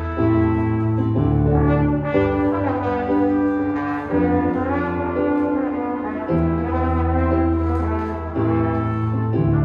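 Indoor wind band, with brass out front, playing held chords over low brass bass notes; the chords change every second or two.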